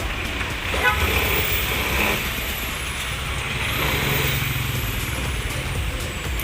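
Street traffic rumbling steadily, with a vehicle horn sounding briefly about a second in and fainter tones a little later.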